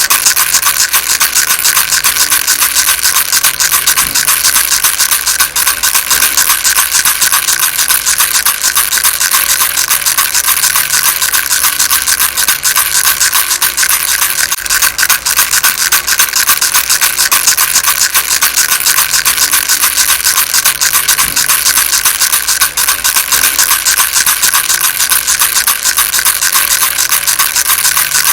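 Baby rattle shaken steadily without pause, a fast, dense, unbroken rattling of small beads.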